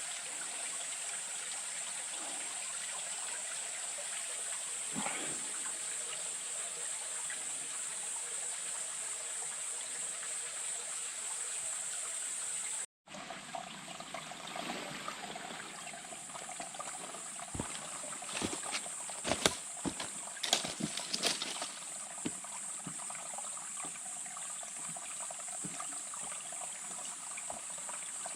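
Stream water trickling and running steadily, with a high steady hiss. The sound cuts out for an instant about halfway through, then carries on with a scatter of sharp clicks and knocks.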